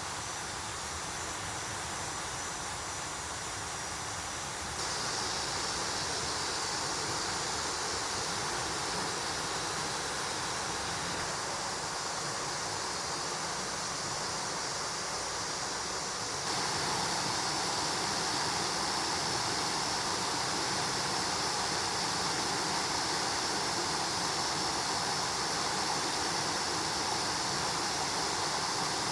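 Rushing water of a mountain stream: a steady hiss that jumps louder twice, about five seconds in and again past the middle.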